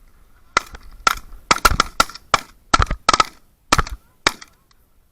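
Several hunters' shotguns firing a rapid volley, about a dozen shots in under four seconds, loud and sharp, at geese coming into the decoys.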